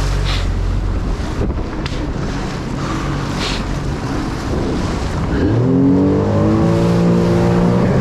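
Jet ski engine accelerating: its pitch climbs steeply about five seconds in and holds high, over steady wind and water noise.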